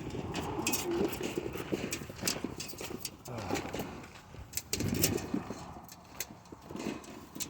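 Homing pigeons being handled in their carrier: irregular light knocks and clicks with some rustling.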